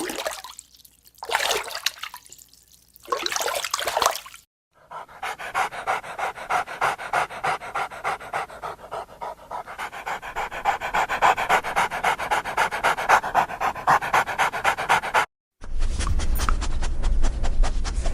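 A dog panting hard in quick, even breaths, about three to four a second. The sound breaks off abruptly twice and starts again.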